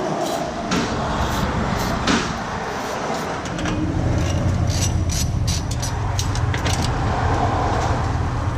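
A steady low mechanical rumble, strengthening from about three and a half seconds in, with many short sharp clicks and knocks over it, as of tools and metal parts being handled while exhaust mufflers are unbolted from their hangers.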